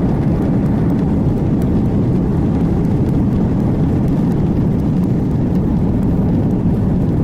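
Airliner jet engines rumbling steadily, loud and low, with no rise or fall.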